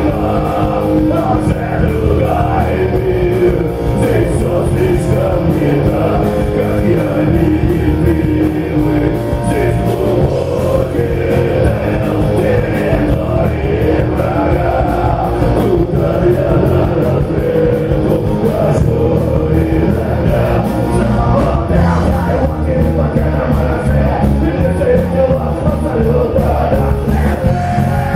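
A rock band playing live, with a singer over loud, continuous electric band accompaniment.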